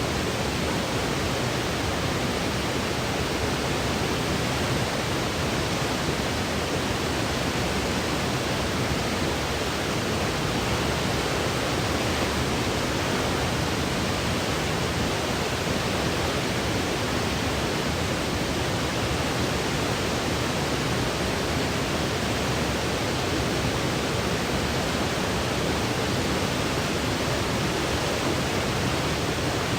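Steady, even white-noise hiss, unchanging throughout, played as a sleep aid for a baby.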